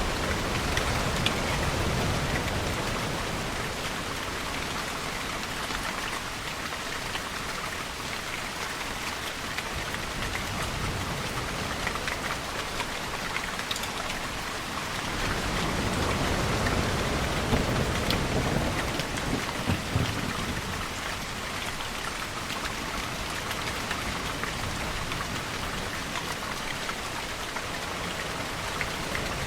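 Steady rain falling, with two slow, low rumbling swells, one near the start and a longer one about halfway through.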